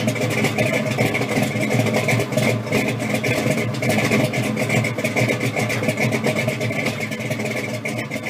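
A car engine idling steadily, with an even pitch and no revving.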